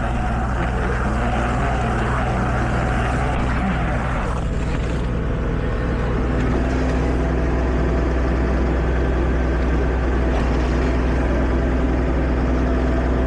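Tractor engine running steadily at a constant speed, with a steady higher hum joining about halfway through.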